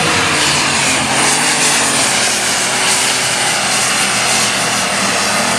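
Light super stock pulling tractor's turbocharged engine at full throttle, steady and very loud, as it drags the weight-transfer sled down the track.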